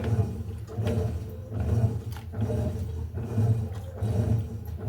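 Electrolux LTE08 washing machine running a wash cycle, a low motor hum swelling and fading about twice a second.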